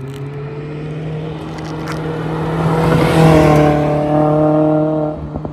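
Mazda MX-5 Miata ND2's four-cylinder engine with a Goodwin Racing race exhaust, the car passing by at speed: the sound builds to its loudest about three seconds in, then the exhaust note trails off. A steady low hum runs underneath.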